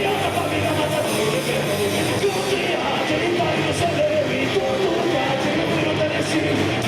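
A rock band playing live, loud and continuous, with a full-band sound and singing.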